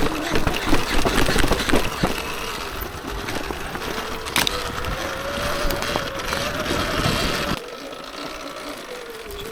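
Surron Ultra Bee electric dirt bike riding a trail: the electric motor's thin whine wavers up and down with speed over a rumble of tyres and scattered knocks. The low rumble eases off about three-quarters of the way through.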